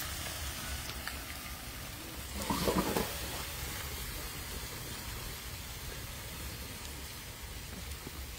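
Seasoned turkey pieces frying in hot oil over a wood fire, a steady sizzling hiss, with one short louder sound about two and a half seconds in.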